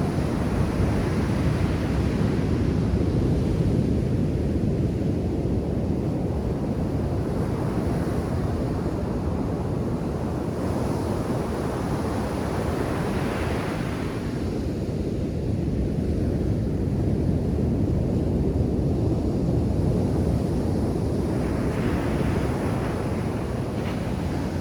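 Ocean surf breaking on a beach: a steady low rumble, with the hiss of the wash swelling up several times as waves come in.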